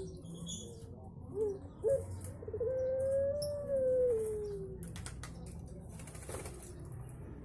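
A puter pelung, a domestic Barbary (ringneck) dove kept for its long coo, cooing: two short notes, then one long drawn-out coo that rises slightly and then slides down in pitch.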